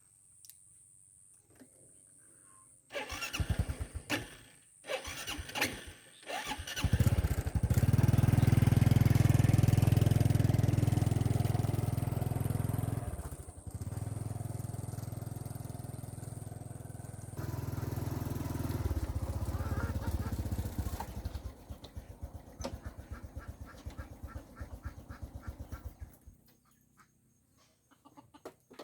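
A small petrol engine coughs several times and then catches and runs. It runs hard, eases off and picks up again, then slows into separate putts and fades out near the end.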